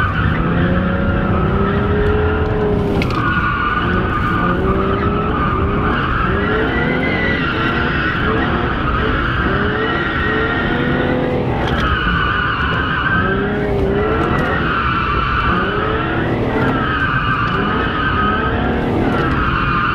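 A car drifting: the tires squeal in repeated wavering swells while the engine revs rise and fall with the throttle.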